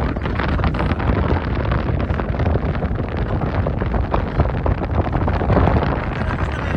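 Strong sandstorm wind buffeting the microphone: a loud, rough rush of noise, heaviest in the low end, swelling and easing with the gusts.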